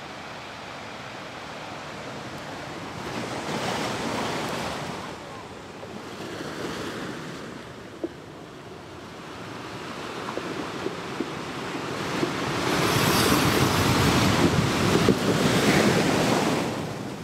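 Ocean waves washing ashore: a steady surf hiss that swells twice, loudest near the end, then eases off.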